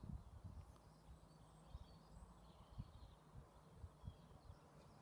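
Near silence: faint rural outdoor ambience with a few faint bird chirps and a faint low hum.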